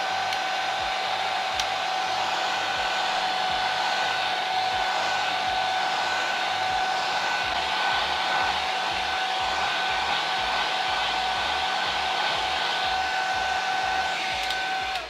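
Electric blow dryer running steadily to dry wet watercolour paint: a loud rush of air with a steady high whine, switched off at the very end so the whine drops away.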